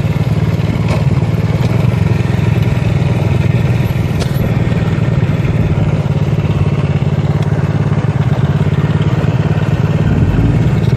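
Motorcycle engine running steadily at an even pitch, heard from the rider's own bike.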